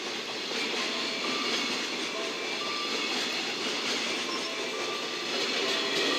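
Loaded freight container flat wagons rolling past close by: a steady rumble and clatter of wheels on rail, with a few brief faint squeaks, growing a little louder near the end.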